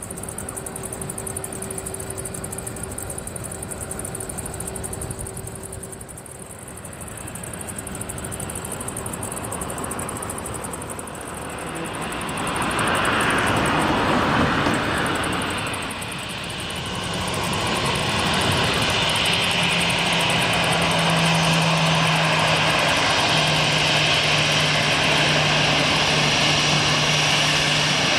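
Airbus A320 jet engines, growing loud about twelve seconds in as the airliner comes close, then staying loud and steady with a low hum.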